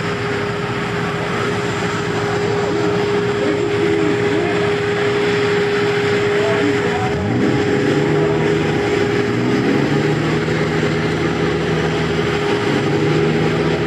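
A vehicle engine running: a steady whine for the first half, then the engine revs up about seven seconds in and holds at a steady higher speed.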